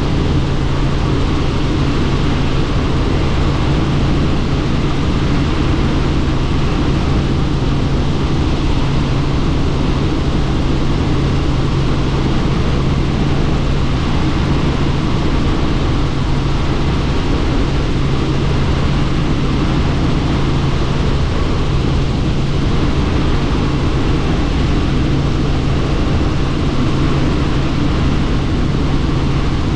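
Helicopter in steady flight, heard on board: the rotor and engine drone evenly with a constant low hum under a broad rush of air noise.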